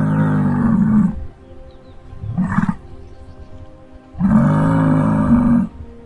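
Muskox calling with three deep, rough bellows: a long one at the start, a short one a couple of seconds in, and the longest, about a second and a half, near the end.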